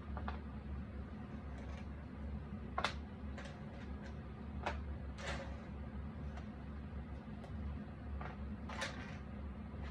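Jigsaw puzzle pieces being handled: a scatter of small clicks and short scrapes as cardboard pieces are picked up, slid and pressed into place, over a steady low hum.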